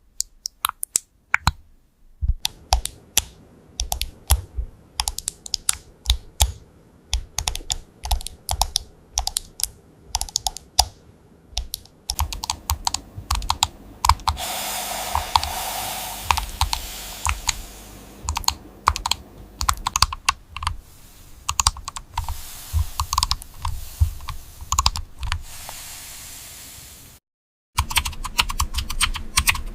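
Typing on a mechanical keyboard: keystrokes clicking in quick, irregular runs. About halfway through, the typing gets denser over a steady hiss, as if on a different board or recording. It stops for an instant near the end, then resumes.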